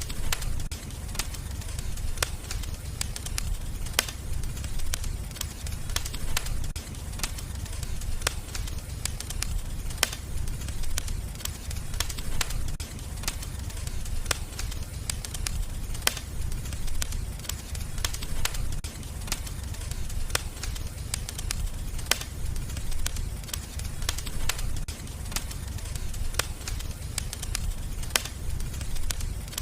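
Wood fire crackling: sharp pops and snaps at irregular intervals over a steady low rumble of the flames.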